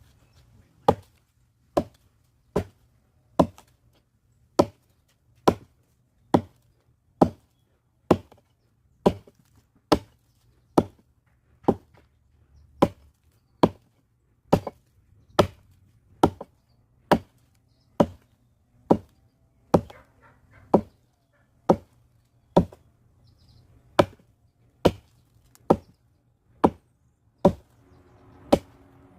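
Firewood being chopped: a steady run of sharp strikes, a little under one a second, each blow the same.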